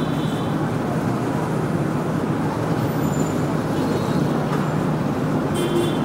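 Steady street-traffic noise with a motorbike engine running, with faint short high tones near the start and again near the end.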